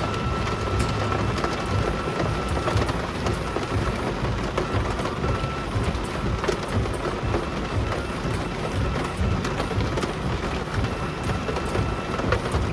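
Heavy rain with the steady rumble of a vehicle travelling through it. A faint steady tone sounds at the start and again near the end.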